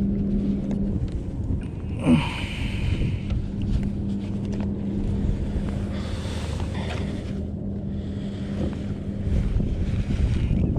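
Wind buffeting the microphone, with a faint steady hum underneath and a few brief rustles; a short sharp sound about two seconds in is the loudest moment.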